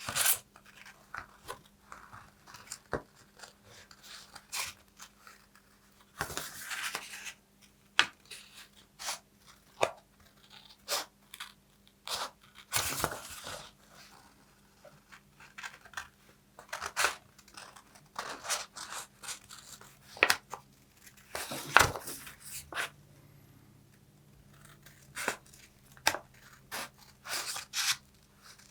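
Paper being handled up close: many short crisp snips and crinkles, broken by three longer tearing or crumpling sounds of about a second each.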